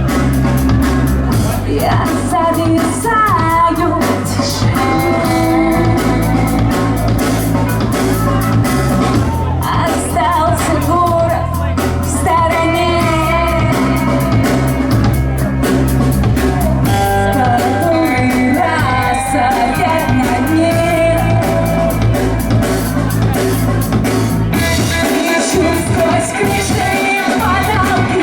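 Rock band playing live: a vocalist singing over guitars and a full band, the deep bass dropping away about three-quarters of the way through.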